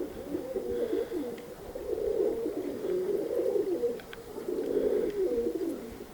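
Several domestic pigeons cooing at once, a continuous overlapping warble of low calls.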